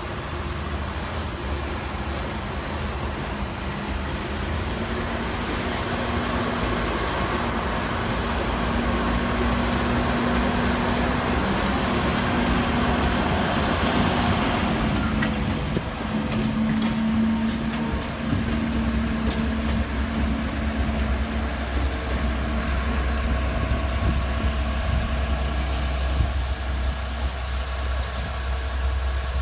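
Freight train of ore hopper wagons hauled by an electric locomotive moving on the track: a steady mechanical rumble with a low hum, and a high whine that glides down and fades about halfway through.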